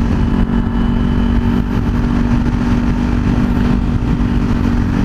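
Kawasaki Z400's parallel-twin engine running at a steady speed while riding, its note holding level without revving up or down, over a constant low rumble.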